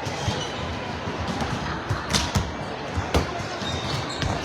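Volleyballs being struck and bouncing on a gym floor, two sharp smacks about two and three seconds in and a few lighter ones, over the steady din of a busy gym hall.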